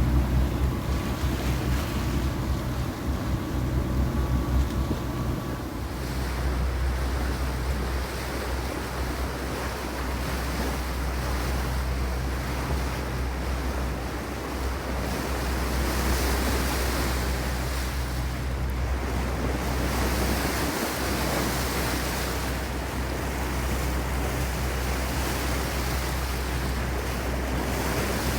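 Wind noise on the microphone and water rushing and splashing past a sailboat under way, over a steady low rumble. A faint hum sits underneath for the first six seconds or so.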